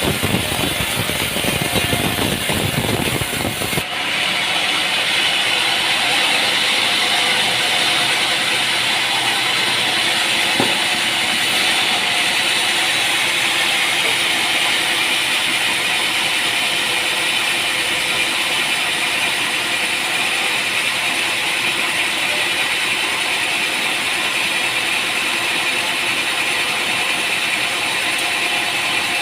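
Sawmill machinery running: a low, engine-like rumble that cuts off abruptly about four seconds in and gives way to a steady, high-pitched mechanical rattle.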